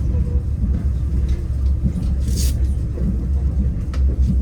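Passenger train carriage running on the rails, a steady low rumble heard from inside the carriage, with a brief hiss about halfway through.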